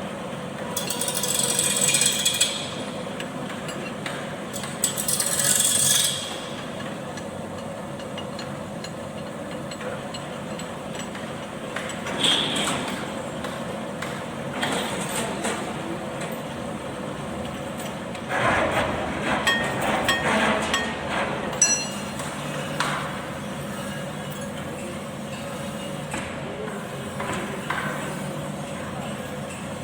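Hand tools working on metal: scattered clinks, knocks and scraping, with a denser run of clatter about two-thirds of the way through. Two short hissing bursts, about a second in and about five seconds in.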